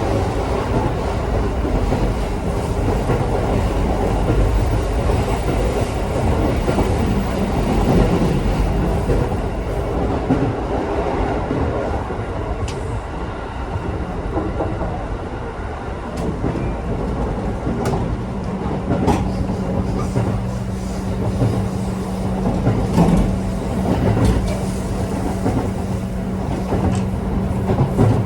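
Electric commuter train running on rails, heard from inside the carriage: a steady rumble of wheels on track with a few sharp clicks from rail joints. About two-thirds of the way through, a steady low hum joins in.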